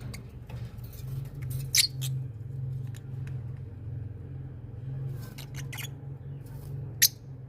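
Short, high chirps and clicks from small pet birds, scattered through a steady low hum. Two sharp chirps stand out, about two seconds in and near the end.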